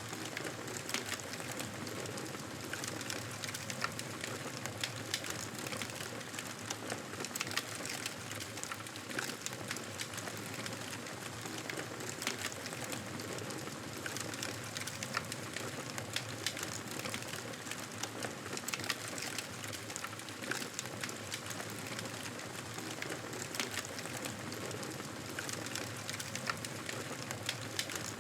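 Fire in a fireplace crackling, with frequent sharp, irregular pops over a steady hiss.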